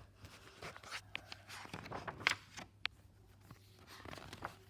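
Faint handling noises: scattered soft taps, scrapes and rustles over a low steady hum.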